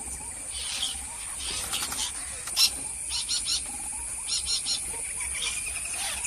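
Parrots calling in short, harsh, high calls, some single and some in quick runs of three, over a steady high-pitched drone.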